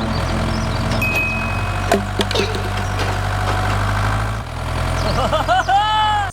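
Small engine running steadily, its note shifting about four and a half seconds in. Near the end a short warbling tone rises and falls over it.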